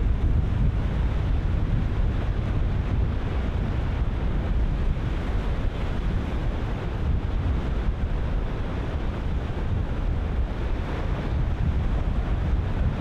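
Ocean surf breaking in a continuous steady wash, with strong wind buffeting the microphone and rumbling in the low end.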